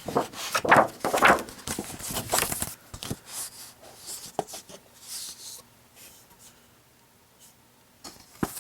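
Paper rustling as a car brochure is handled and its pages turned, busiest in the first three seconds, then a few softer rustles and a sharp click near the end.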